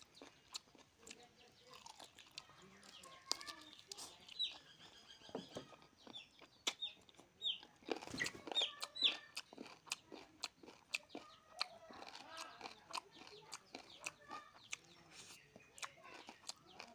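Close-up eating sounds: many sharp wet clicks and smacks of chewing chicken and rice eaten by hand. Chickens cluck and chirp in the background, with a run of short high chirps in the middle.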